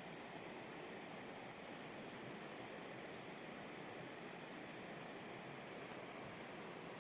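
Steady, faint rush of water pouring over a river rapid.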